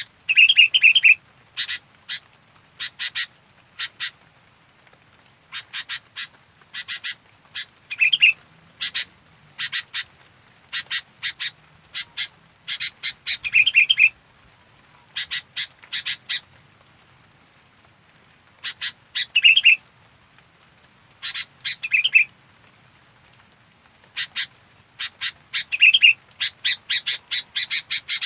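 Sooty-headed bulbul (kutilang) calling actively: short, sharp chirps in quick clusters of a few notes, broken by brief pauses, with an occasional burbling phrase.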